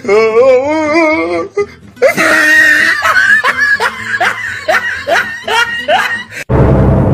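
Laughter: a wavering, quavering laugh for about a second and a half, then after a short pause a quick string of repeated 'ha-ha' bursts. Music with a heavy bass cuts in near the end.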